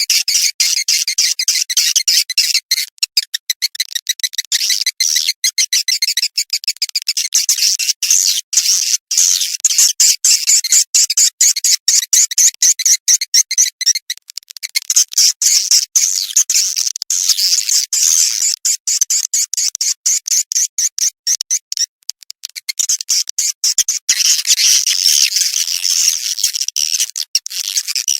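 Edible-nest swiftlet calls, a fast, unbroken stream of high, buzzy chirps and twitters. This is a swiftlet-farming lure recording, the calling sound played to draw swiftlets into a nesting house.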